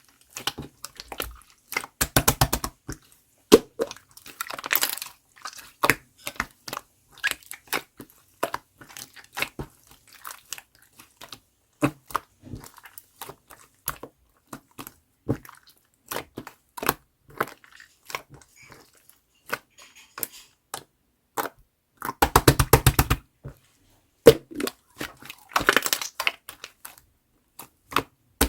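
Close, crisp crinkling and crackling from a small round toy being squeezed and worked in the hands: scattered sharp clicks throughout, with two spells of rapid crackling, about two seconds in and about twenty-two seconds in.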